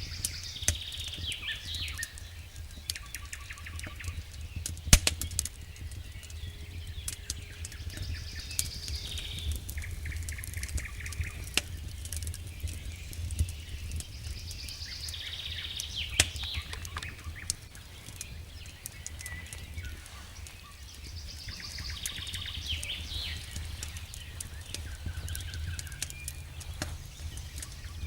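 Wood fire crackling in a fireplace: irregular sharp pops and snaps, one louder snap about five seconds in, over a steady low rumble. Brief high chirping sounds come back every six or seven seconds.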